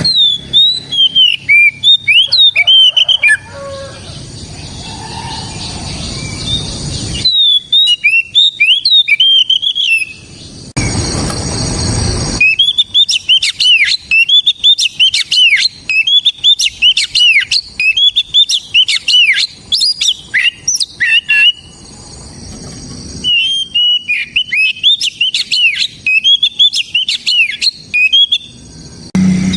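Oriental magpie-robin singing fast runs of loud, varied whistled notes in four bursts with short pauses between them.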